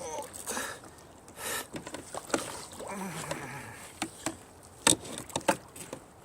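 Water splashing and sharp knocks and clicks around a kayak, with a cluster of knocks late on and the loudest of them about five seconds in.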